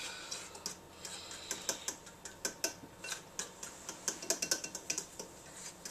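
A utensil tapping and clinking against a bowl while pancake batter is stirred, in quick irregular strokes that come fastest about four to five seconds in.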